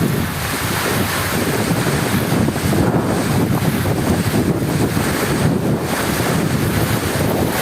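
Heavy rain falling steadily: a loud, dense wash of noise with a deep, low undertone and no separate thunderclaps.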